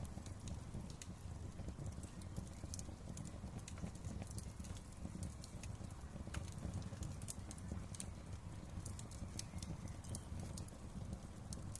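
Wood fire crackling: frequent irregular pops and snaps over a low, steady rumble of the flames.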